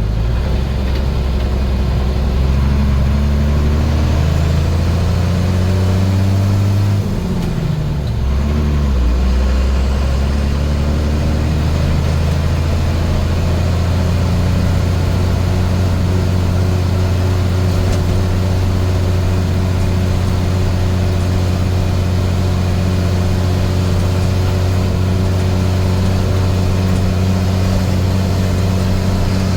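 International DT466 inline-six turbo diesel in a dump truck under way: the revs climb, drop with a gear change about seven seconds in, climb again, then hold a steady cruise.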